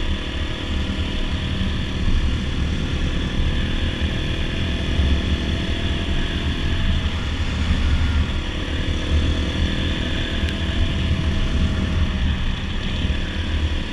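Dirt bike engine running steadily at road speed, with a heavy low rumble of wind on the rider's microphone; the engine note dips briefly about halfway through.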